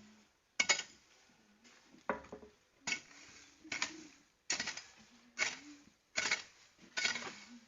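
A metal hand tool such as a hoe striking and scraping the ground in a steady working rhythm, about eight strokes, a little faster than one a second.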